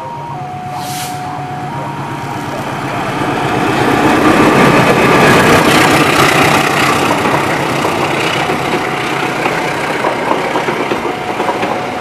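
CC206 diesel-electric locomotive hauling a passenger train passes close by, its engine running with rushing wheel and air noise that swells to a peak about four seconds in and stays loud.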